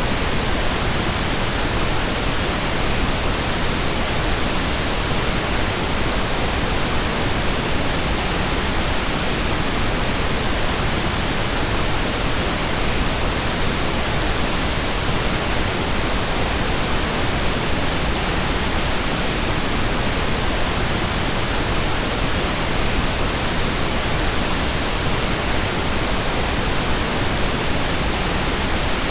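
Steady, unchanging pink noise: an even hiss spread across all frequencies.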